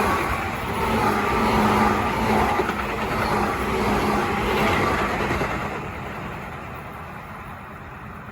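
Electric commuter train running past on the track. Its noise holds loud for about five seconds, then fades away as it moves off.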